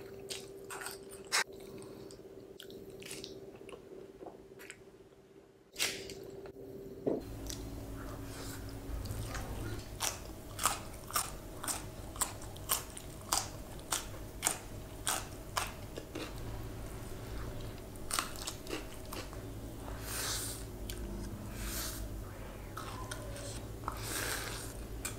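Close-miked chewing and crunching of food in the mouth, with a quick run of crisp, evenly spaced crunches in the middle.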